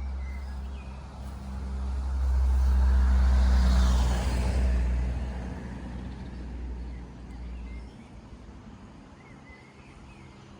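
A road vehicle passing by, its rumble and tyre hiss swelling to a peak about three to four seconds in, then fading away.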